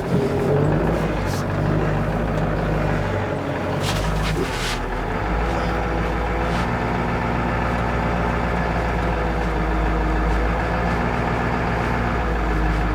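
1995 Ford 7.3 Powerstroke V8 turbo-diesel running at low speed as the F350 creeps backwards in reverse, a steady diesel rumble with a couple of brief knocks in the first few seconds.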